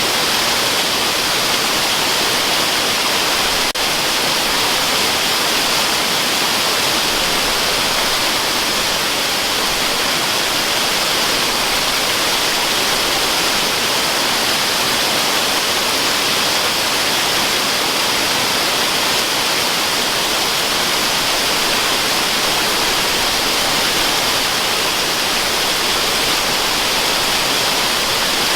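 Waterfall rushing steadily: an even, continuous hiss of falling water, brightest in the upper-middle range, with a brief faint click about four seconds in.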